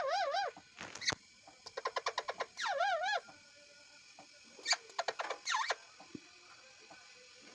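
Pet parrot calling. It gives warbling calls whose pitch wavers up and down at the start and again about two and a half seconds in, with runs of quick chirps between them. A few short, sharp calls come about five seconds in.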